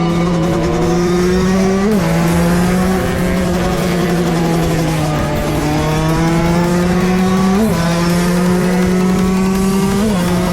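Two-stroke dirt bike engine running hard at high, steady revs, with a brief jump in pitch three times.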